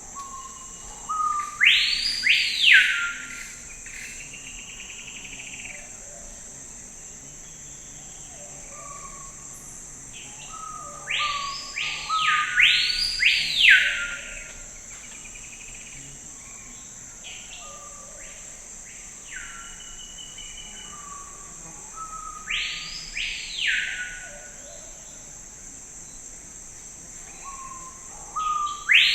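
Songbird singing a repeated phrase of loud, arching whistled notes that rise and fall, returning about every ten seconds, over a steady high-pitched insect drone.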